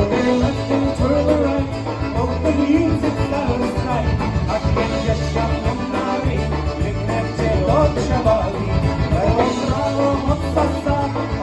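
Live polka band playing a polka, with low bass notes repeating on the beat under the melody.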